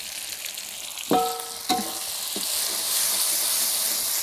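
Ground chilli, garlic and shallot paste with torn kaffir lime leaves sizzling in hot oil in a pan, being fried until fragrant. About a second in, two ringing clanks of a utensil against the pan are heard. The sizzle grows louder in the second half.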